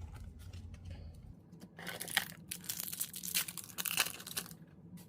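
A hockey card pack's wrapper being torn open and crinkled by hand, a dense crackling that lasts about three seconds.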